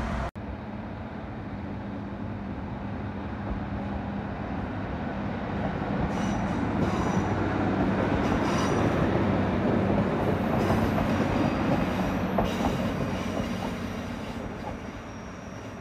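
A two-car diesel multiple unit passing on curved track: engine and wheel-on-rail noise builds to a peak about halfway through, then fades as the train moves away. A few brief high wheel squeals come through in the middle.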